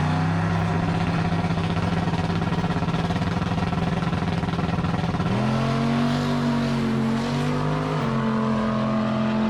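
Sleeper pickup truck's engine running hard on a drag-strip pass. Its note holds steady, then jumps higher about five seconds in and rises a little again near the end.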